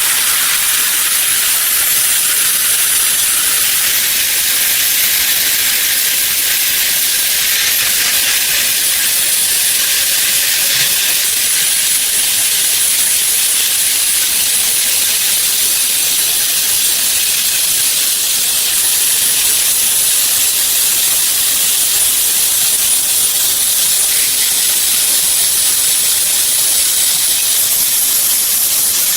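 Compressed air from a shop air tool hissing loudly and steadily, high-pitched with a faint thin whistle on top.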